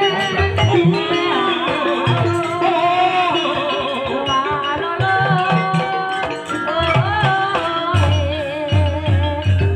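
Javanese campursari-style gamelan music accompanying ebeg dance: a singer's wavering melodic line over steady hand-drum (kendang) beats and pitched percussion.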